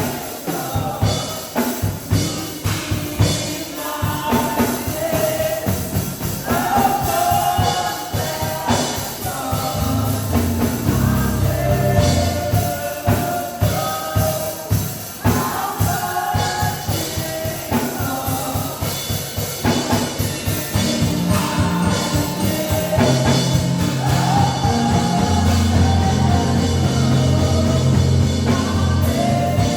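Live gospel worship music: voices singing a melody over a drum kit, with a low bass line that comes in strongly about ten seconds in.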